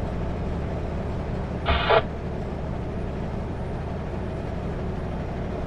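Kenworth W900L semi-truck cruising on the highway, its engine and road noise a steady low drone, with a short burst of hiss just under two seconds in.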